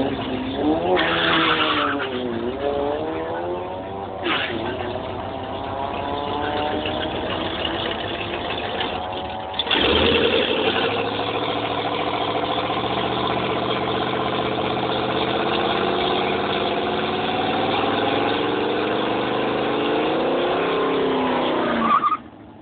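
Chevrolet Monte Carlo's V8 engine revving hard through a burnout, tyres spinning in clouds of smoke. The revs swing up and down over the first few seconds. About ten seconds in it jumps to a louder, steady high-rev pull that climbs slowly, then cuts off suddenly near the end.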